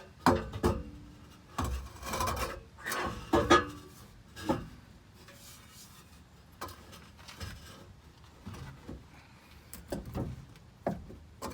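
An old steel exhaust pipe scraping and clunking against the truck's underbody as it is worked loose and pulled out in one piece. A run of loud scrapes and knocks comes in the first few seconds, then fainter occasional knocks.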